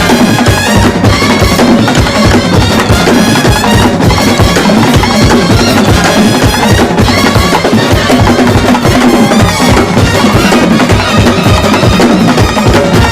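Festival band playing loud, continuous music: drums beating a fast, steady rhythm under a wavering melody line.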